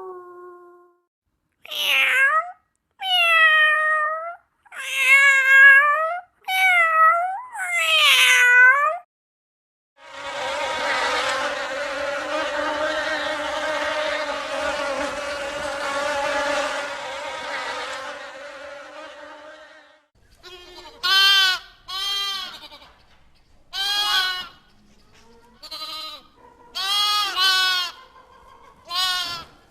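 A cat meowing five times, then about ten seconds of steady insect buzzing that fades away, then a string of short animal calls.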